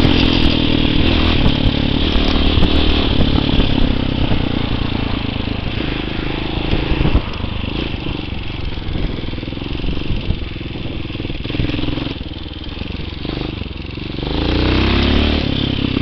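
TaoMotor TBR7 enduro dirt bike engine running under way across rough ground. The revs ease off through the middle, then climb again as the throttle is opened near the end.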